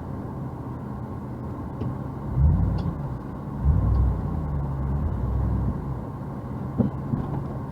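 Truck engine revving in two surges as it tries to pull a car in neutral, its wheels slipping on snow. The first rise comes about two seconds in; the second is held for a couple of seconds.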